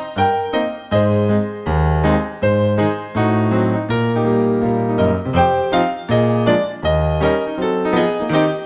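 Soft background piano music: a gentle keyboard piece with a steady flow of notes over low bass notes.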